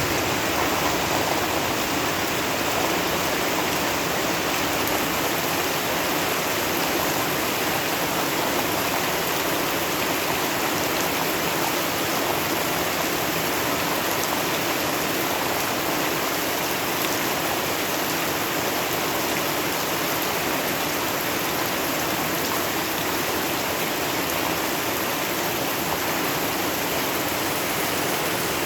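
Steady rain with running water, an even, unbroken hiss that holds the same level throughout.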